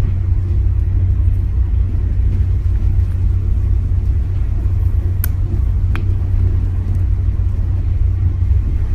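Steady low rumble of a moving SAR passenger train, heard inside the carriage. Two faint clicks come about five and six seconds in.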